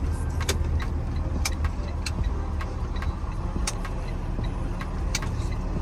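A 28 ft box truck's engine running, heard as a steady low rumble inside the cab. Scattered sharp clicks or rattles sound a handful of times.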